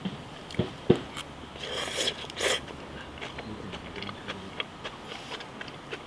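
Camp-cooking handling sounds: two sharp knocks about half a second apart early on, then two short scraping rustles around two seconds in, followed by light scattered ticks.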